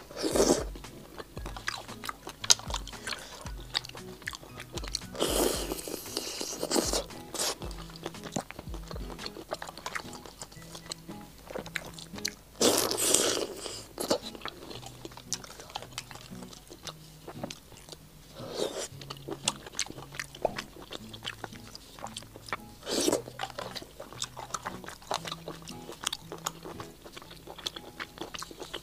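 Close-miked eating of spicy stir-fried seafood: biting and chewing with many small wet clicks and crunches, and louder bursts of mouth sounds about five and thirteen seconds in. Quiet background music runs underneath.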